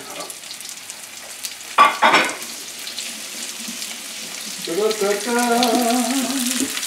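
Sesame-crusted tuna steaks searing in hot oil in a frying pan: a steady crackling sizzle that grows denser in the second half. A short, louder noise comes about two seconds in, and a voice hums a note for about two seconds near the end.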